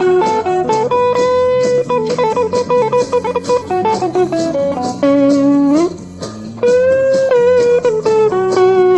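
Electric guitar playing sustained lead notes with string bends, one bent upward about six seconds in, over a backing track with a steady drum beat.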